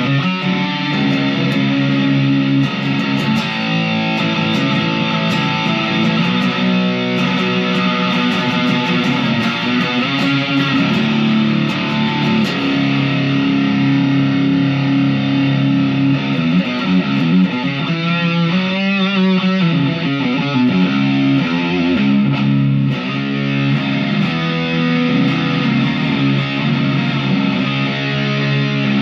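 Chapman SAR63 semi-hollow electric guitar played through an overdriven amp: sustained distorted chords, with a stretch of wavering, bent notes about two-thirds of the way through.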